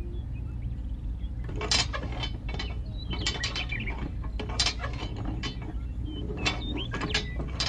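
Irregular sharp mechanical clicks and clanks, like a small ratcheting or geared mechanism, starting about a second and a half in, over a steady low hum.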